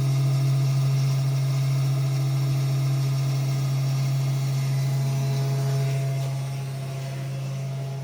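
Desktop mini CNC router engraving wood with a V-groove bit, its small 12-volt spindle motor (about 1,000 RPM) running with a steady hum; the sound eases a little about six seconds in.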